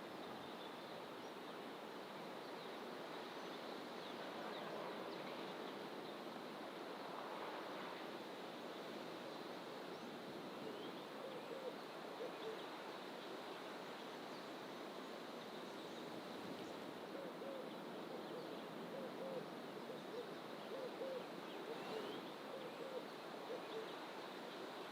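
Birds calling in fynbos bush: repeated short, low hooting notes in little runs from about ten seconds in, and a few faint high chirps. Under them runs a steady hiss of ocean surf.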